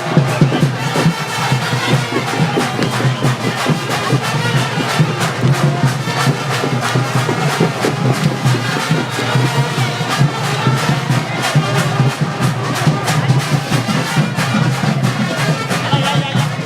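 Kavadi procession band music: brass playing over a steady, driving drum beat.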